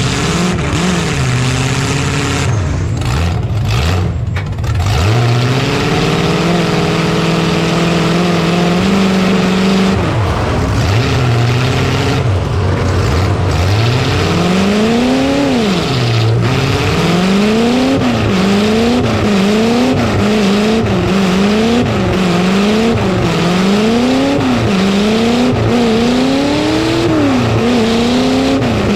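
Demolition derby truck engines running hard at high revs. Through the first half the pitch is held fairly steady; from about halfway on it rises and drops again about once a second, as the throttle is worked in short bursts.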